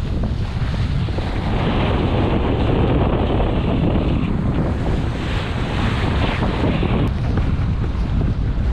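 Strong wind buffeting the microphone, a steady loud rumble over the rush of water and waves.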